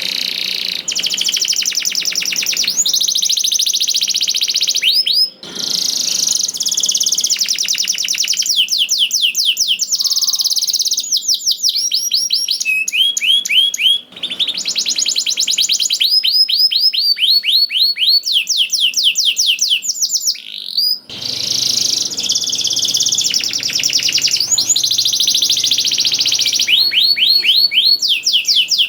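Domestic canary singing a long, loud song of rapid repeated trills and rolls, the notes sweeping up and down in fast runs. Short breaks cut the song three times.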